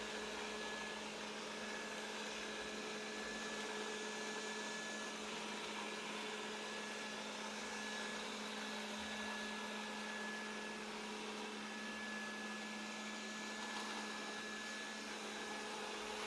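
Qihoo 360 S7 robot vacuum running steadily while cleaning: an even motor hum under a constant airy hiss.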